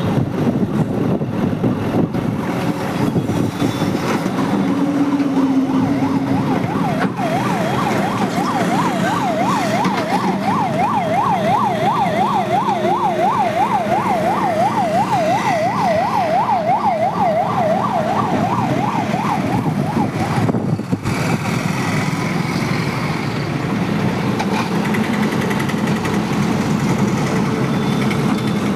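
A siren warbling rapidly up and down, about three rises and falls a second, starting about seven seconds in and stopping about two-thirds of the way through. Under it, heavy machinery's engine drones steadily throughout.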